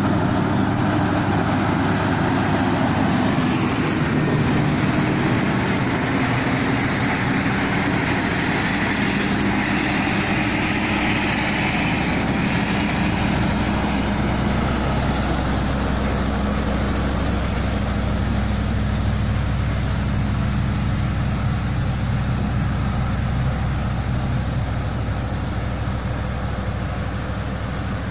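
Heavy truck's diesel engine running steadily, a continuous low drone that grows stronger about halfway through.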